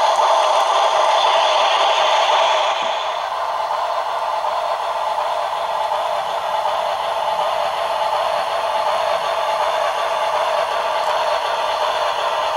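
HO scale Shay locomotive model running on track, its LokSound 5 sound decoder playing steam-engine sounds through the model's small speaker over a steady mechanical clatter. It gets slightly quieter about three seconds in.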